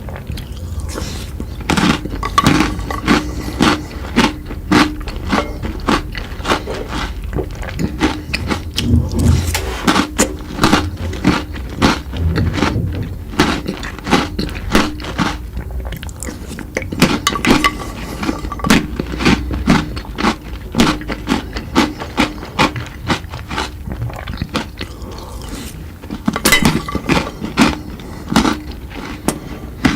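Close-miked eating sounds: a person biting and chewing crunchy chocolate sweets, with many irregular sharp crunches and crackles.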